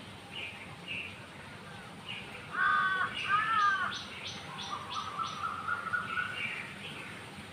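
Wild birds calling: scattered short chirps throughout, with two loud harsh calls between about two and a half and four seconds in. A quick run of about six short, sharp notes and then a rising series of notes follow.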